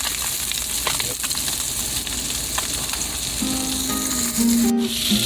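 Brown trout frying in butter in a pan, with a steady sizzle throughout.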